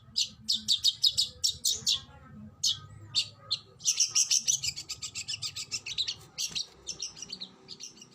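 Oriental magpie-robin (kacer) singing a string of short, sharp high notes. About four seconds in it breaks into a rapid, dense run of notes lasting about three seconds, then trails off.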